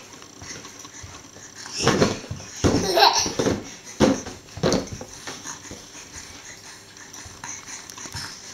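A small child laughing and squealing in a few short bursts, loudest about two to five seconds in.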